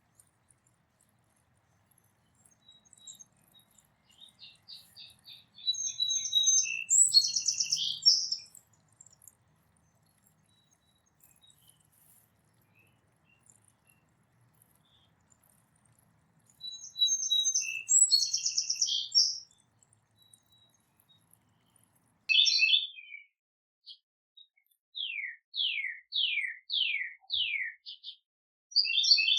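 Wild songbirds singing: two longer song phrases with fast trills, a short burst of notes, then a run of five whistled notes, each sliding down in pitch.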